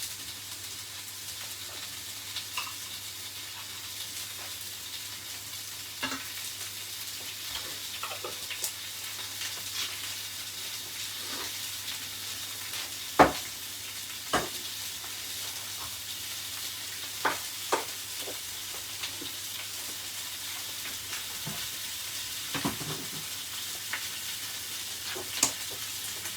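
Chicken wings sizzling steadily in hot coconut oil in a frying pan, browning over raised heat. Scattered sharp knocks of a utensil against the pan break in now and then, the loudest about halfway through.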